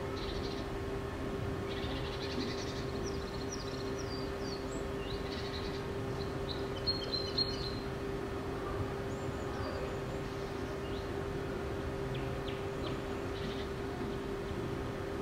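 Birds chirping and calling in scattered short phrases, with three sharper chirps about halfway through, over a steady hum and low rumble of the room.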